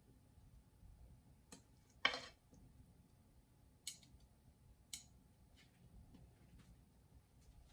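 A few light clicks and knocks and one short scrape about two seconds in, from small objects being handled in a quiet room.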